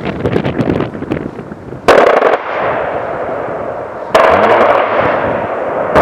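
Two short bursts of fire from an A-10's GAU-8 30 mm rotary cannon, about two seconds apart. Each starts suddenly, is loud for about half a second and trails off into a long rumbling echo. A third burst begins at the very end.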